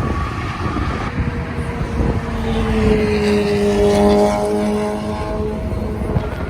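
Car engine and exhaust over a steady low rumble. A held engine note comes up about two seconds in, is strongest mid-way, and fades out before the end, like a car driving past.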